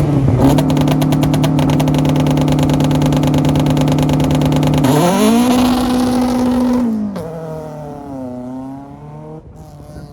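Rally car engine held at a steady high rev on the start line, with a rapid even crackle typical of launch control or anti-lag. About five seconds in it launches: the revs climb and hold, then drop through gear changes as the car pulls away and fades.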